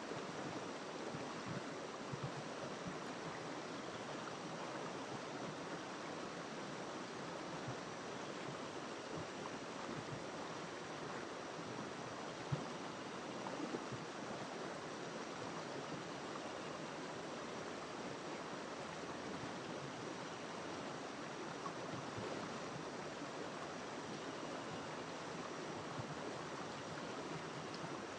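River water flowing in a continuous, even rush, with one brief tap about halfway through.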